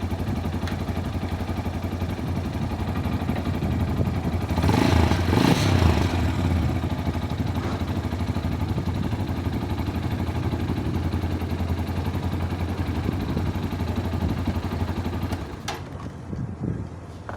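Tekken 250cc motorcycle engine running steadily, swelling louder for a moment about five seconds in. Near the end it cuts off suddenly with a click, leaving a much quieter stretch.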